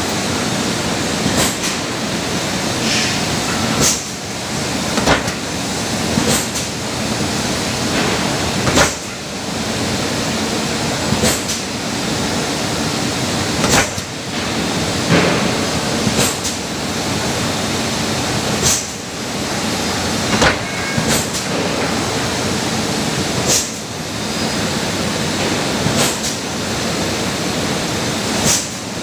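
Hongsing clipper machine running with a steady loud mechanical noise, broken every one to three seconds by a sharp clack as it cycles.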